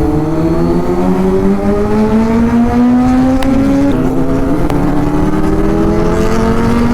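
Kawasaki inline-four sport motorcycle engine and exhaust pulling under load, its pitch climbing slowly, with a short break in the pitch about four seconds in before it climbs again.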